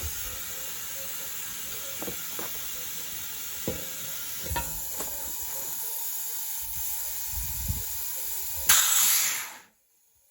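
Compressed air hissing steadily from a homemade tire bead blaster into a truck tire, let in slowly because the blaster's handle is sticking, with a few light knocks. Near the end there is a brief, louder rush of air, and then the sound cuts off.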